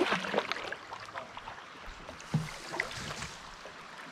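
Kayak paddling on a fast river: irregular paddle splashes and knocks on the hull over running water, busiest in the first second, with a sharper knock a little past the middle.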